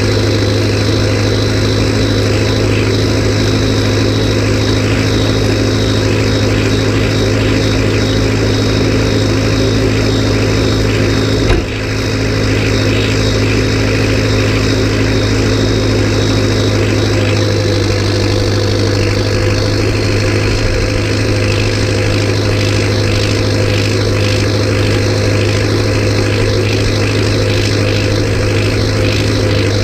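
A tractor's diesel engine runs at steady revs with a strong, even low drone. There is a single brief knock about halfway through.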